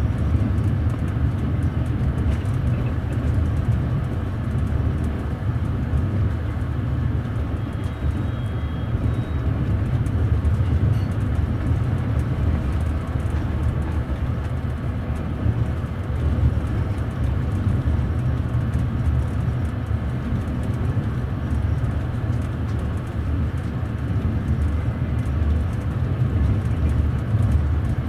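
Moving passenger train heard from inside the upper deck of a double-deck coach: a steady low rumble of the wheels running on the rails.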